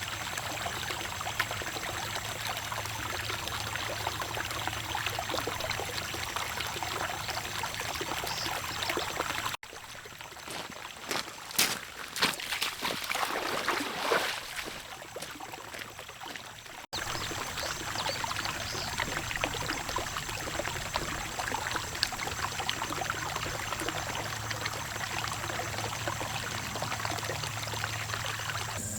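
Running water, a steady rush of pouring and splashing, with a quieter stretch in the middle that holds a few sharp knocks.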